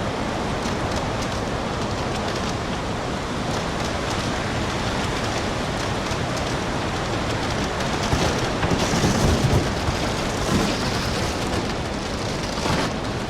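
Storm wind: a steady rushing noise that swells louder between about 8 and 10 seconds in.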